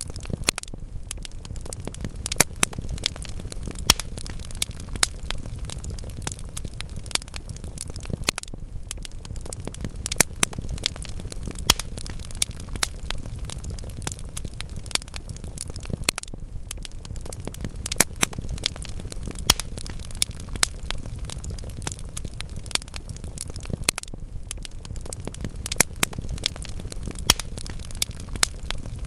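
Wood fire burning in a fireplace: a steady low rush of flames under irregular crackling, with frequent sharp pops from the burning logs, a few of them louder than the rest.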